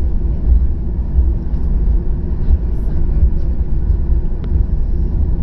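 Steady low rumble of a Boeing 737-800's CFM56-7B jet engines and airframe, heard inside the passenger cabin.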